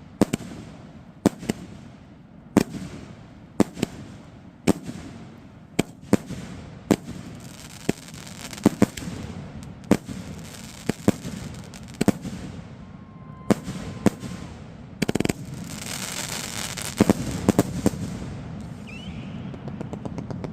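A 72-shot consumer firework cake firing: sharp reports about one a second, then a fast run of shots and a crackling finale that dies away about two seconds before the end.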